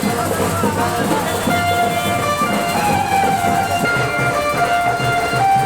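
Loud music played over loudspeakers: a held melody line over a steady beat that comes in clearly about four seconds in.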